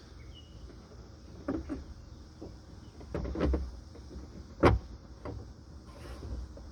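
Plastic interior trim cover of a Toyota Prius hatch being handled and lined up on its clips: scattered plastic knocks and clicks, the sharpest a little under five seconds in.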